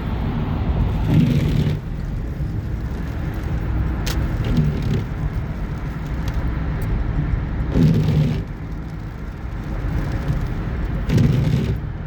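A car driving: a steady low rumble of engine and road noise, swelling louder a few times, with a brief click about four seconds in.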